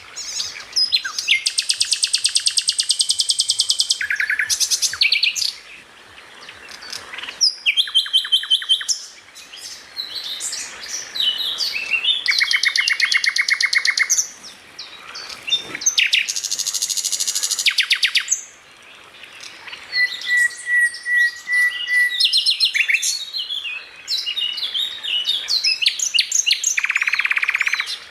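Songbird singing a fast, varied masteran-style song. Rapid rattling trills alternate with quick chirps and whistled notes, and a short run of even notes comes about twenty seconds in. The song breaks off for a moment several times.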